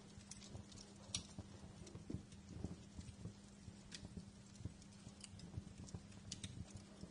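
Wood fire crackling in a fireplace: faint, irregular pops and snaps, the sharpest about a second in, over a steady low hum.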